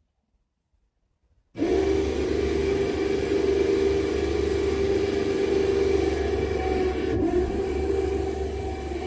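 Electric truck-mounted winch motor starting suddenly about a second and a half in and running steadily with a whine, pulling in its cable.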